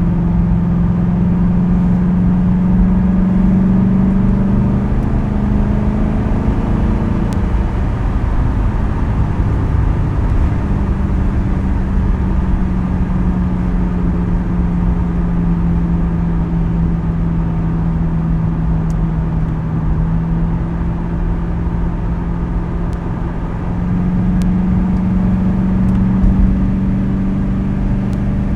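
2010 Ford Crown Victoria Police Interceptor's 4.6-litre V8 pulling at a steady cruise through a modified quad-tip exhaust, giving a steady drone. Its pitch rises slightly a couple of times as the throttle is added.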